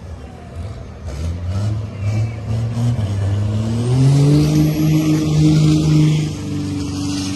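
Scania truck diesel engines under hard acceleration in a drag race. The pitch pulses low at first, climbs steeply about three seconds in, holds high for about two seconds, then drops back near the end.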